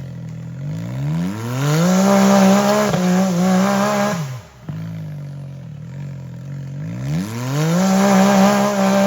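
Side-by-side UTV engine revving in two long pulls. Each rises over about a second and holds at high revs, with a short drop back to low revs about four seconds in.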